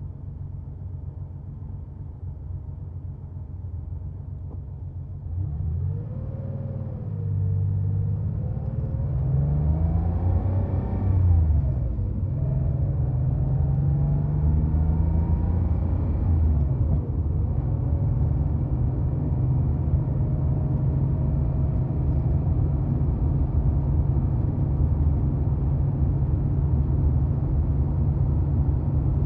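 1990 Porsche 911's air-cooled flat-six engine running. It grows louder over the first ten seconds, its pitch rises and falls a few times in the middle, then it runs steadily at one pitch.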